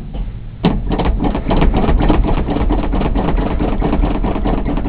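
1971 Ford F-100's 302 V8 being cranked by the starter on a cold start: rapid, even mechanical pulses beginning about half a second in, with the engine not catching. The owner puts the no-start down to the tank being out of gas.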